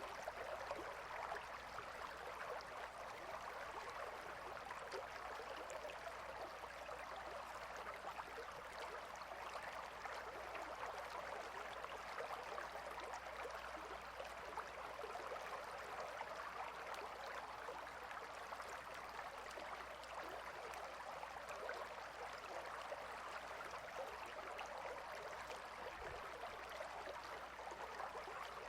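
Gentle river flowing steadily: an even rush of running water with no distinct splashes or breaks.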